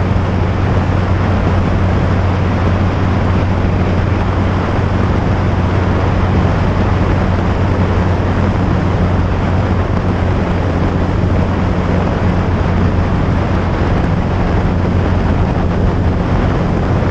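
Motorcycle engine holding a steady drone at cruising speed, with wind rushing over the microphone.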